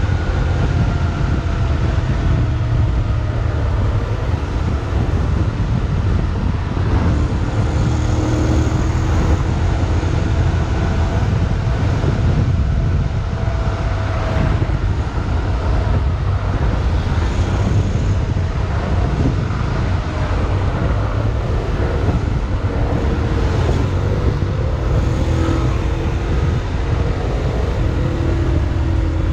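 Steady rush of wind noise while riding a Honda X-ADV 750 parallel-twin motorcycle, with a low rumble and the engine's note slowly rising and falling underneath.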